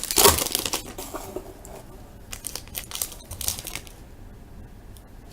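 A baseball card pack's wrapper being torn open and crinkled: a loud sharp rip at the start, then smaller crinkles off and on, fading near the end.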